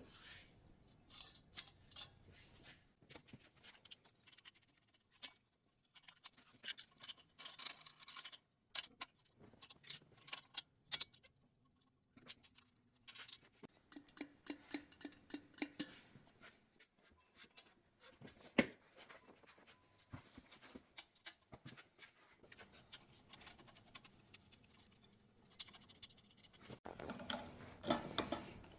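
Irregular light metallic clicks and clinks of hand tools and engine parts being handled during engine assembly, with a busier stretch of handling noise near the end.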